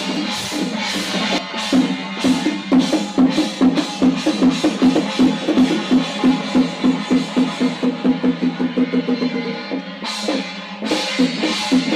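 Music driven by rapid, even drumbeats, about four a second, over a steady held tone. The drumming breaks off briefly shortly before the end, then starts again.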